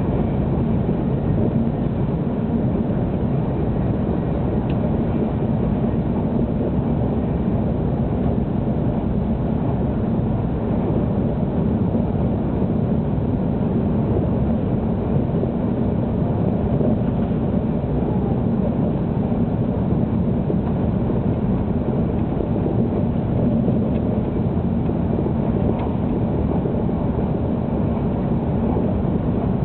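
Steady low running noise of a 700 series Shinkansen at speed, heard inside the passenger cabin.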